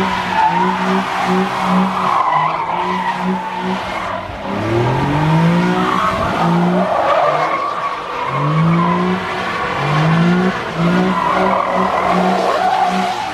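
Car engine revving up again and again, its pitch climbing in repeated sweeps, over the continuous screech of spinning tyres: a car doing a burnout.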